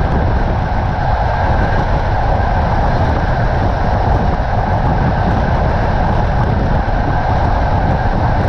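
Passenger train coach running at speed on the rails, heard at the carriage window: a steady rumble and rush of wheel and track noise with no distinct clicks.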